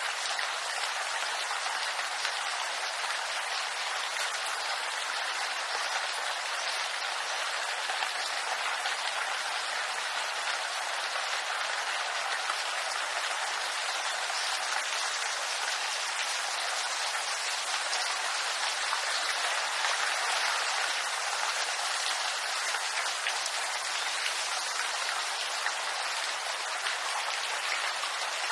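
Steady rain falling on a bamboo grove, an even patter of drops on leaves without a break.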